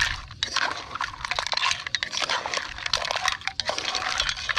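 Mussels in their shells clattering and scraping in a cooking pot as they are stirred, a dense run of irregular clicks and crackles.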